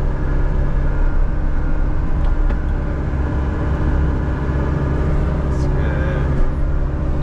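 John Deere 60G excavator's diesel engine running steadily as the machine works, with a short hiss about two-thirds of the way in.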